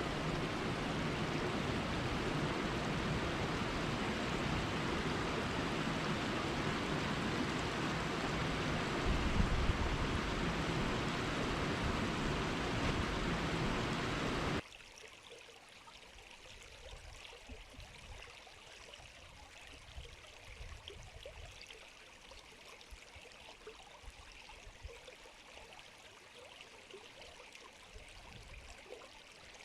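River water rushing steadily, then about halfway through it cuts abruptly to a much quieter, lighter flow of water.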